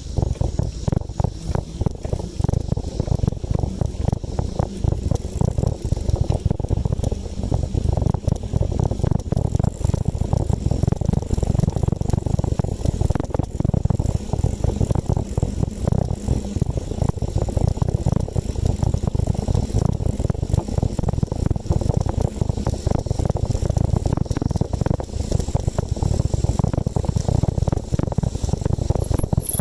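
Wind buffeting the microphone of a camera riding along on a moving bicycle: a steady, fluttering low rumble.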